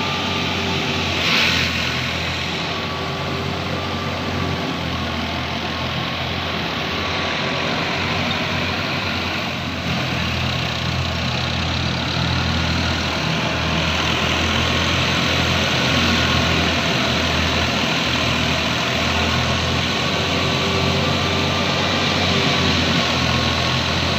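Heavy farm vehicle engine running steadily, with a brief sharp sound about a second in.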